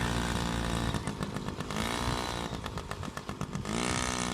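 Yamaha PW50's small two-stroke single-cylinder engine running as the bike is ridden, its revs dropping and picking up again as the throttle is eased off and opened.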